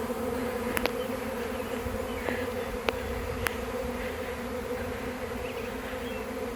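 A honey bee swarm in flight, thousands of bees buzzing in a steady, dense hum all around, with a few faint clicks in the first half. The swarm has just left the hive and is settling onto a tree to cluster around its queen.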